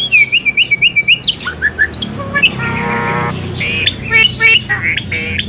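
Javan myna (jalak kebo) singing its varied chatter: a quick run of repeated short notes, then whistled slides, a harsh buzzy phrase in the middle, and more rapid chattering near the end.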